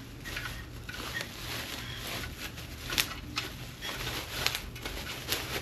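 Rustling and handling noise of a battery lamp being packed back into its packaging, with a few sharp clicks and light knocks, over a steady low hum.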